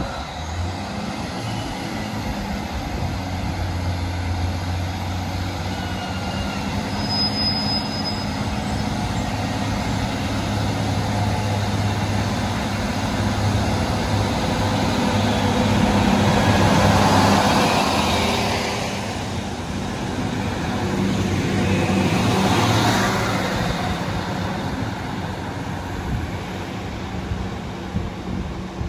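A train approaching and passing: a steady low engine hum under a rushing noise that builds, peaks twice in the second half, then fades.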